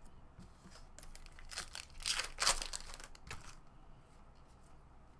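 The foil wrapper of a baseball card pack being torn open and crinkled: a burst of rustling and crackling that starts about a second in, lasts about two and a half seconds and is loudest in the middle.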